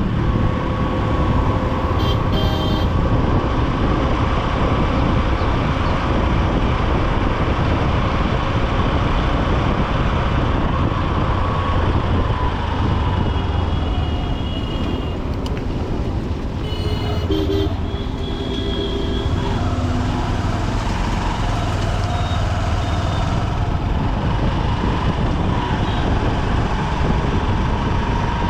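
Honda SP125's single-cylinder engine running under way in dense city traffic, with wind rush and surrounding traffic noise; the engine note drops around twelve seconds in as the bike eases off, then picks up again. Short horn toots from nearby vehicles sound about two seconds in and again around seventeen seconds.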